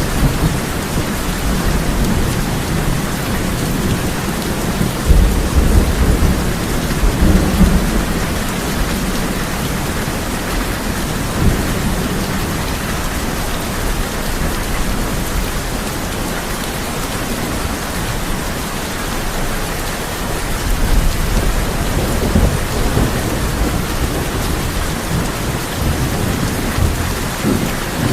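Heavy rain drumming steadily on a tin roof, with low rolls of thunder rumbling under it, the strongest about five to eight seconds in and again around twenty seconds in.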